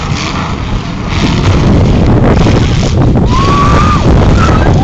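Demolition derby cars' engines running loud and rough, a dense rumble that swells about a second in. About three seconds in a thin high whine rises and holds for under a second, and another starts near the end.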